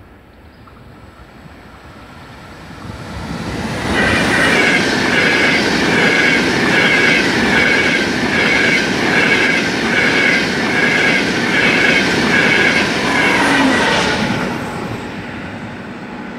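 Frecciarossa high-speed train approaching and passing at speed. A growing rush gives way to about ten seconds of loud wheel-on-rail noise, with a whining ring that pulses in a steady rhythm as the cars go by, then fades near the end.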